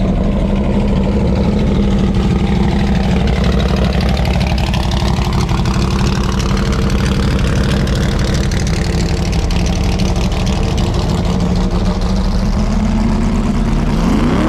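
Loud car engine running steadily at a low rumble, its tone dipping and recovering a few seconds in, and starting to rev up near the end.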